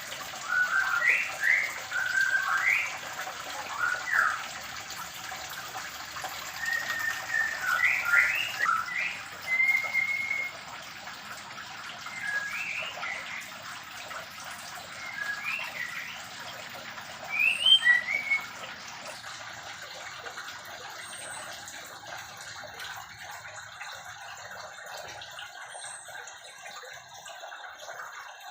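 White-rumped shamas calling: short, rising whistled chirps in quick clusters, growing sparse after about two-thirds of the way through, over a steady background hiss.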